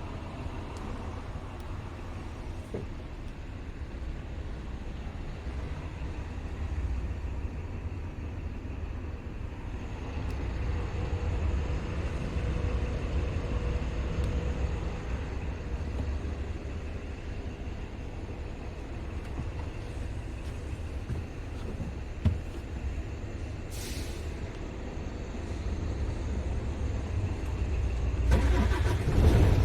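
Scania R500 truck's 13-litre straight-six diesel engine running steadily, growing louder about ten seconds in and again near the end. There is a short hiss of air about three-quarters of the way through.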